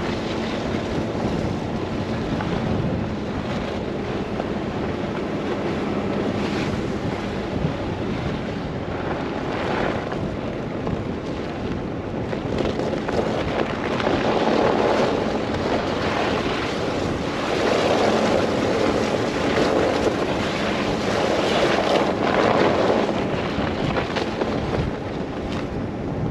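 Car driving through a snow blizzard, with wind rushing and road noise: a steady rush that swells into louder gusts several times in the second half. A faint low hum fades out in the first quarter.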